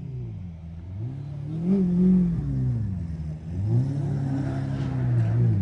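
Car engine revved twice: the pitch climbs, holds briefly and drops back, the second rev held longer before falling off near the end.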